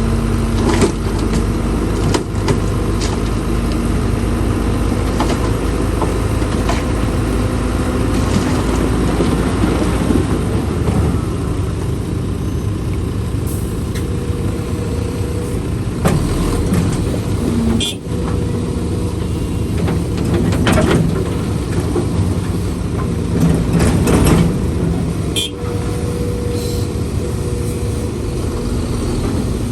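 Heavy diesel machinery, an excavator working with dump trucks, running steadily with changing engine pitch. Sharp knocks and clanks come now and then in the second half.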